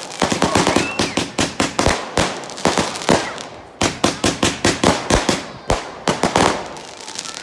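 Fireworks going off in a rapid string of sharp bangs and crackles, several a second, with a short lull about halfway through and thinning out near the end.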